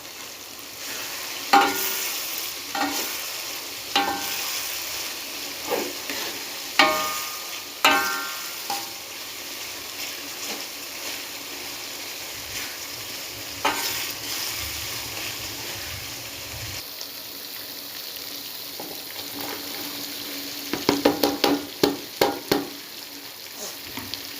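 Food frying in a pan with a steady sizzle, stirred with a metal spatula that clanks and rings against the pan a handful of times in the first eight seconds and in a quick run of taps about 21 seconds in.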